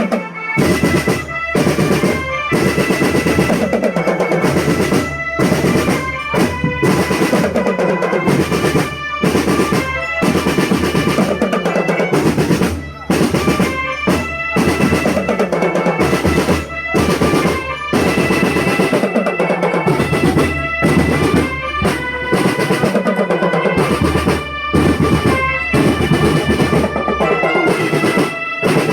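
School marching drum band playing: snare drum rolls over bass drum beats, with a melody of held notes above them.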